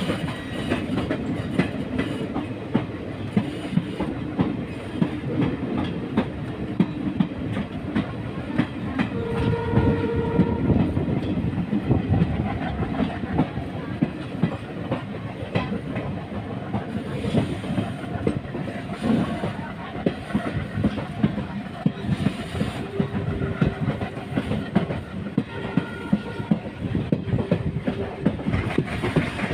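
Passenger train running on the ghat section, its coaches rumbling and the wheels clicking over the rail joints. A few brief tones sound above it, the first about ten seconds in.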